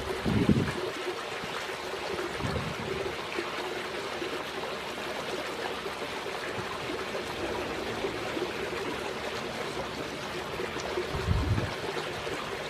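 Steady trickling of running water, with a couple of brief low thumps, one just after the start and one near the end.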